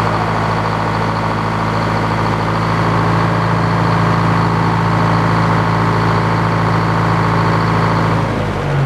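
Engine powering an antique Frick sawmill, running at a steady pitch with a steady higher whine over it. About eight seconds in, the whine stops and the engine note wavers and changes.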